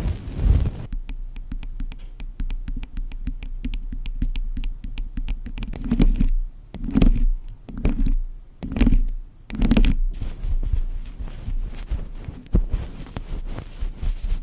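Close-up tapping on glazed ceramic tiles: a brief rubbing, then fast light taps, then five heavier knocks about a second apart, then fine quick scratching and clicking.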